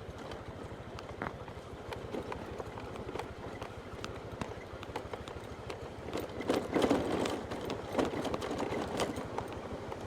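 Motorbike running on the move, a steady low rumble with frequent short clicks and knocks, growing louder for a couple of seconds about six seconds in.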